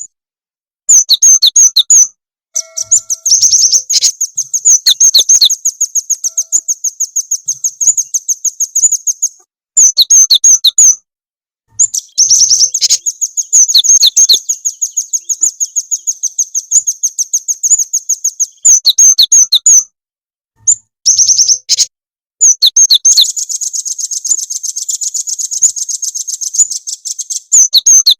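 Recorded small songbird chirping very fast, high-pitched trills in runs of a few seconds broken by short pauses. It is a lure recording made to draw wild birds, played loud enough to clip.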